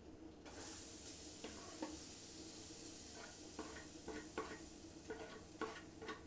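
Onion frying in hot oil in a pan, a steady sizzle that starts about half a second in, while a utensil stirs it, tapping and scraping against the pan several times.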